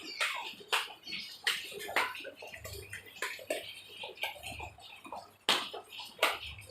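Water splashing and dripping in irregular small splashes and taps, as a child plays in rainwater on a wet floor.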